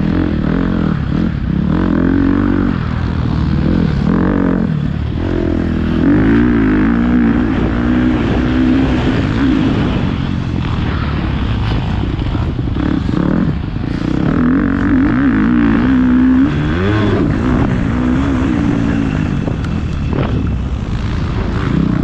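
Motocross dirt bike engine being ridden hard, its revs rising and falling over and over as the throttle opens and closes, with some short knocks and rattles.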